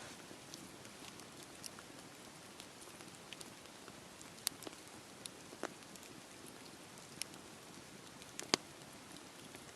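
Campfire burning in steady rain: an even rain hiss with scattered sharp pops and ticks, the two loudest about four and a half and eight and a half seconds in.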